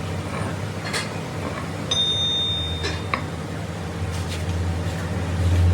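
Steady low hum of a running workshop machine, growing louder near the end, with a few sharp metal clicks and a ringing tone of struck metal lasting about a second, about two seconds in.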